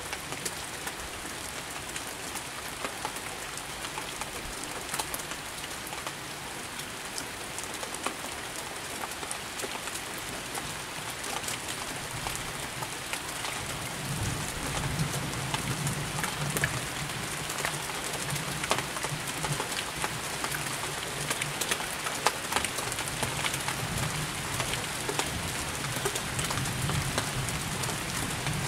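Steady rain falling, with the patter of many single drops hitting close by; the rain is picking up again. A low rumble joins in about halfway through and the whole grows a little louder.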